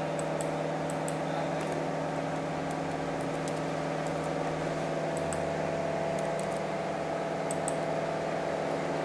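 Steady machine hum with several level tones, like the running noise of a computer, with a few faint sharp ticks scattered through it.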